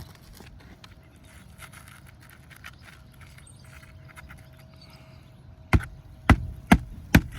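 Four sharp hammer blows about half a second apart near the end, driving a roofing nail to fasten an asphalt shingle back down onto the roof deck.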